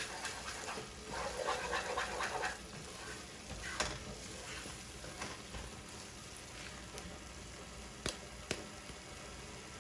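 Wooden spoon stirring and scraping a thick berbere and onion paste in a nonstick pot as it fries dry with a low sizzle. The stirring is busiest in the first couple of seconds, then a steady sizzle carries on with a few sharp knocks, one about four seconds in and two close together near the end.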